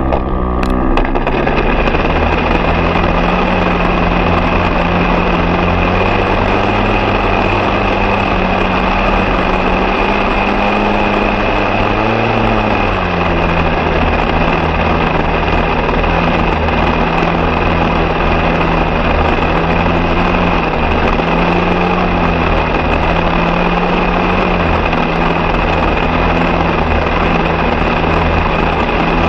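An engine running steadily at constant speed, its pitch briefly rising and then settling a little lower about twelve seconds in.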